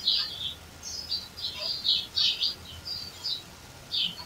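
Birds chirping: a quick, irregular series of short, high chirps, some overlapping, loudest at the start and around the middle.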